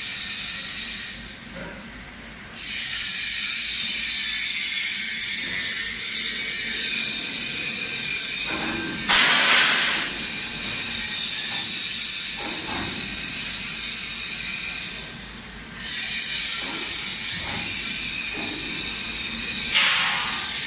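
A loud, steady hiss that drops away briefly twice, with two short, louder rushes of hiss: one about nine seconds in and one near the end.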